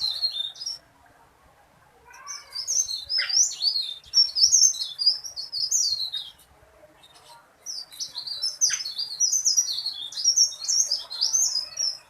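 A teralis songbird singing in long, loud, rapid, high-pitched warbling phrases. The song comes in three bursts: a brief one at the very start, then about 2 to 6 seconds in, then about 8 to 12 seconds in.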